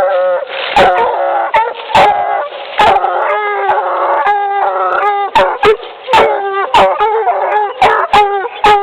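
Two young Bluetick Coonhound pups baying and barking over each other in quick, repeated calls: the tree bark a coonhound gives once it has trailed the scent to a tree.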